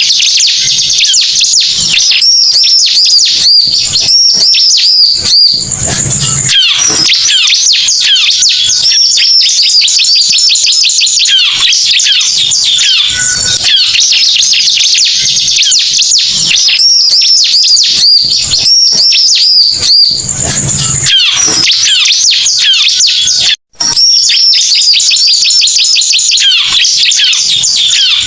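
Bar-winged prinia (ciblek) lure call: loud, rapid, continuous chirping and trilling, played as a recording to draw in territorial birds. The audio drops out for a split second late on.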